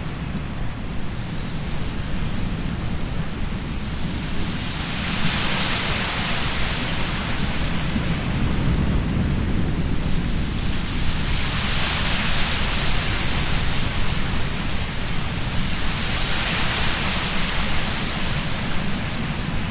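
Surf breaking on an ocean beach. The hiss of the waves swells three times, about every five or six seconds, over a steady low rumble of wind on the microphone.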